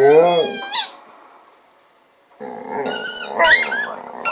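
Golden retriever vocalizing during ball play: a drawn-out, low moo-like groan that rises into a high whine. After a short pause comes a run of wavering, squeaky whines and grumbles.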